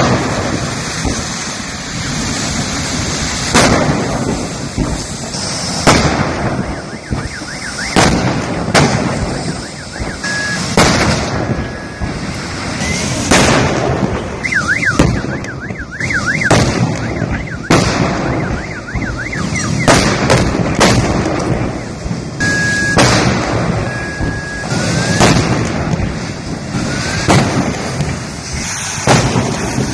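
A series of loud explosions, about a dozen sharp bangs a second or two apart, over the steady noise of a large fire. Car alarms sound through it, warbling about halfway through and giving steady beeps before and after.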